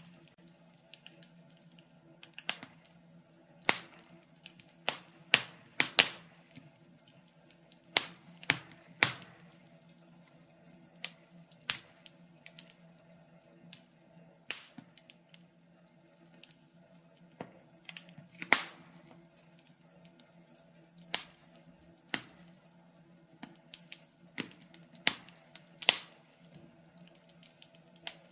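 Wood fire crackling in a fireplace: irregular sharp pops and snaps, a few much louder than the rest, with the loudest about two-thirds of the way in.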